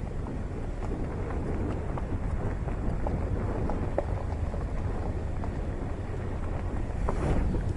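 Car driving slowly over a rough off-road dirt track: a steady low rumble with scattered knocks and rattles from the wheels and body, growing a little louder near the end.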